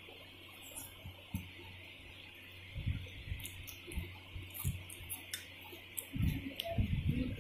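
Close-up chewing and wet mouth sounds of someone eating rice and curry by hand, soft low thumps with small clicks that grow louder and more frequent near the end, over a steady hiss.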